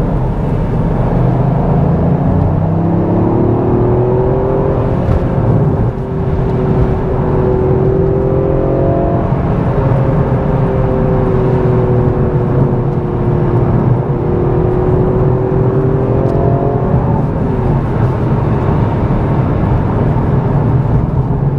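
Toyota GR Yaris's turbocharged three-cylinder engine heard from inside the cabin. Its note rises as the car pulls away a couple of seconds in, holds steady while cruising, and fades as the driver eases off near the end, over a constant low rumble of tyres on a wet road.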